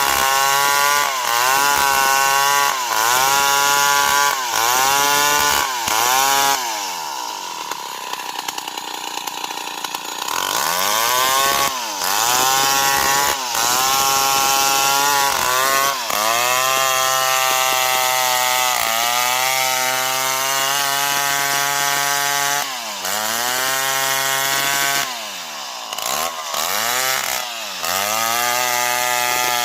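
Old Stihl 070 chainsaw, a big single-cylinder two-stroke, revved in short throttle blips, then dropping to idle for a few seconds. It then runs at high revs in long pulls, with brief dips in pitch as it works into the wood.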